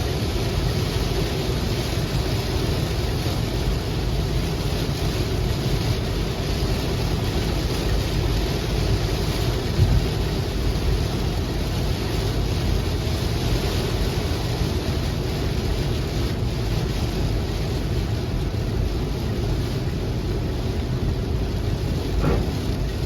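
Heavy rain falling in a steady downpour, with a deep rumble underneath.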